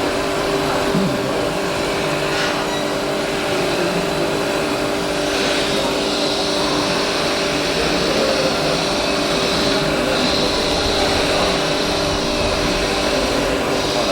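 Radio-controlled scale construction machines running, a steady mechanical whine and hum holding several constant pitches throughout.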